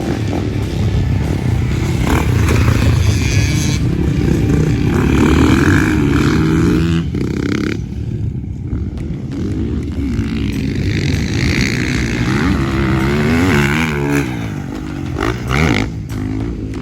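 Motocross bike engine running hard, its pitch rising and falling as the throttle is worked around the track, with a short lift-off about halfway through.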